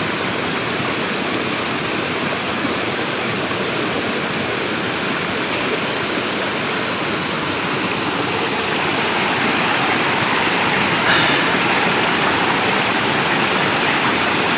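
Waterfall water rushing in a steady roar that grows slightly louder in the second half, with a faint short sound about eleven seconds in.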